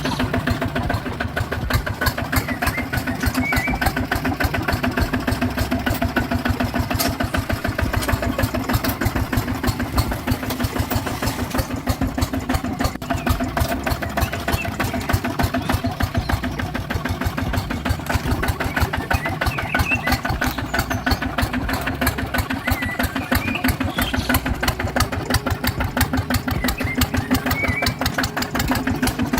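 Engine running steadily with a rapid, even chugging.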